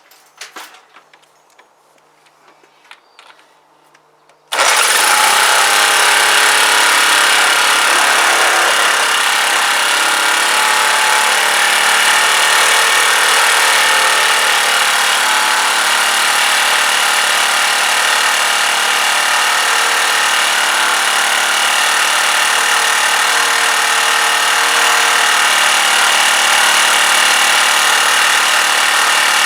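A few clicks and knocks, then about four and a half seconds in the Clarke pressure washer's small petrol engine fires and runs loud and steady. It is running on choke, because it will only run on choke: the carburettor still needs work.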